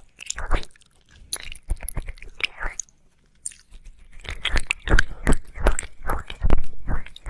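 Wet mouth sounds of ASMR ear licking: irregular smacks and clicks, sparse at first with a brief lull about three seconds in, then coming thick and fast from about four seconds on.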